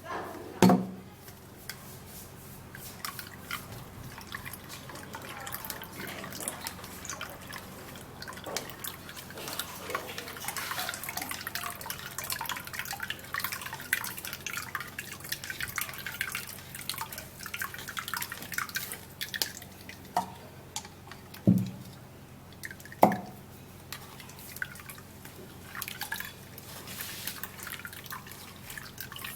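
Blended fruit juice being strained through a sieve, dripping and trickling into a container. Three sharp knocks stand out: one about a second in and two close together about two-thirds of the way through.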